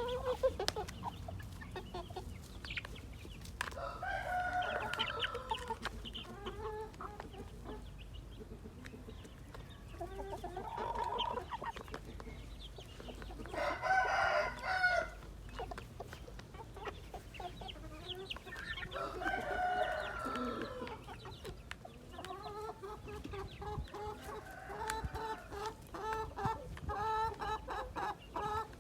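Roosters crowing about four times, long calls several seconds apart, over the clucking of chickens. In the last few seconds the clucking turns into quick, repeated clucks.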